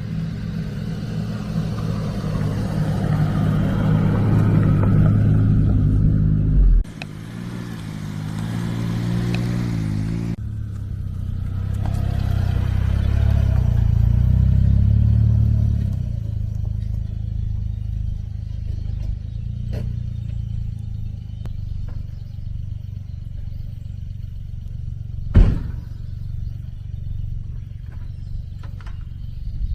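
A motor vehicle's engine running and building revs, then settling to a steady drone, broken by abrupt changes that sound like cuts, with a single sharp knock near the end.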